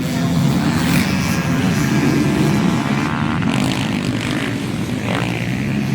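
Motocross dirt bike engines running on the track, their pitch rising and falling as the riders work the throttle.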